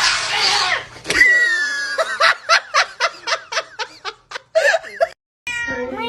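Laughter in a quick run of short bursts, about four a second, after a noisy opening burst; near the end, after a brief break, a held pitched call begins.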